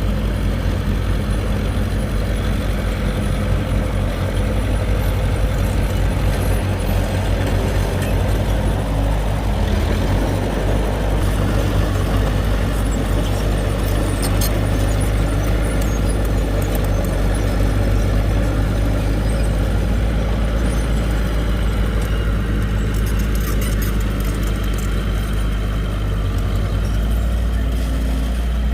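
Diesel engine of heavy earthmoving equipment running steadily at work, a loud, deep, even drone.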